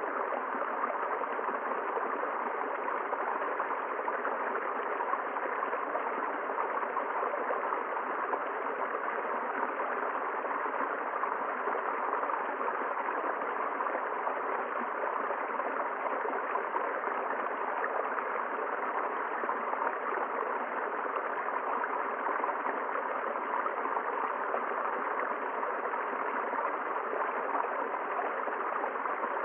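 River water flowing over stones: a steady rushing and gurgling that never changes in level.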